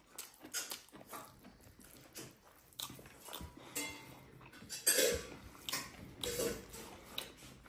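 Close-up eating sounds of a person chewing fried pork and rice: irregular wet mouth clicks and smacks, with a louder short burst about five seconds in.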